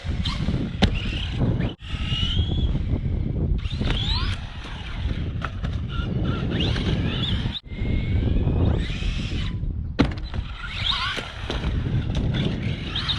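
RC buggy's brushless electric motor (Arrma Typhon 3S BLX with a Hobbywing 4000kv motor) whining as it revs up and down over a steady low rumble, with a sharp knock about a second in and another near ten seconds.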